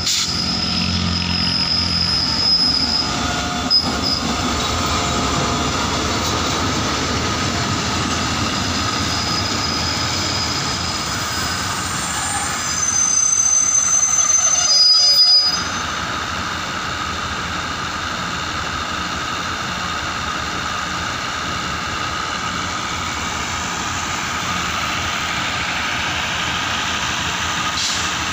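A diesel-electric locomotive and a long rake of passenger coaches roll slowly into the station, rumbling steadily, with high thin wheel and brake squeals. The squealing is loudest in a stretch that cuts off abruptly about fifteen seconds in.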